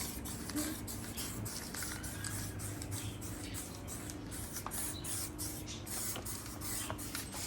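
Aerosol can of black spray paint hissing in quick, broken-up bursts as it is sprayed onto the metal stove.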